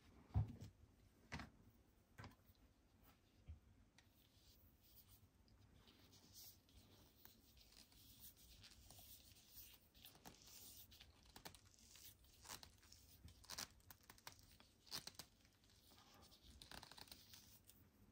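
Packaging being handled and opened: faint tearing and crinkling of wrapping, with scattered soft taps and clicks, the loudest about half a second in.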